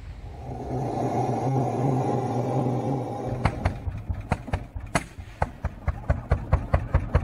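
A locomotive gives a long low blast for about three seconds, then pulls away with a run of sharp exhaust beats that gradually quicken.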